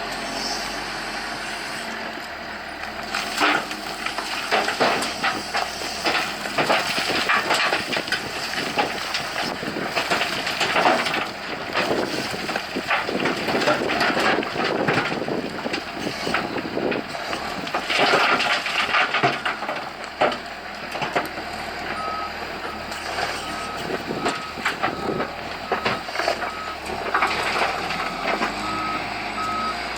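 Wheel loader at work beside a dump truck: diesel running under load with a series of loud clattering knocks and crashes, then a reversing alarm starts beeping about twice a second, about two-thirds of the way in.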